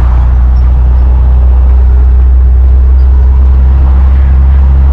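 Steady low drone of a military truck's engine and road noise, heard from inside the cab while driving.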